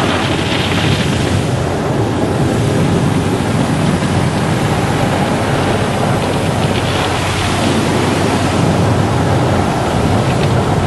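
Car wash running: a loud, steady rushing noise, hissier for a moment near the start and again past the middle.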